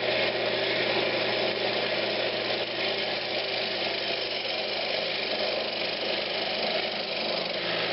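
Woodturning lathe running steadily at speed: a steady hum under an even hiss.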